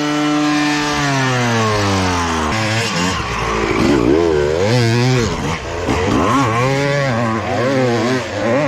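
Two-stroke dirt bike engine revving: held high at first, dropping away over a second or so, then blipped up and down in quick repeated swells as the rider works the throttle.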